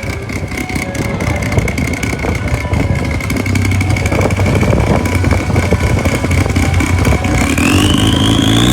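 A car's exhaust rumbling at low revs and growing steadily louder. A thin high whine holds steady, then rises in pitch near the end.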